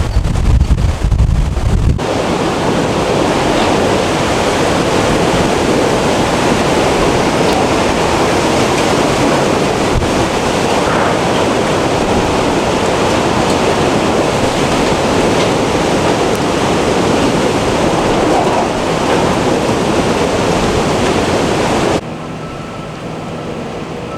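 Hurricane Ida's wind blowing hard, a steady rushing noise with wind buffeting the microphone for the first two seconds. The sound changes abruptly about two seconds in and again near the end, where it drops to a quieter wind.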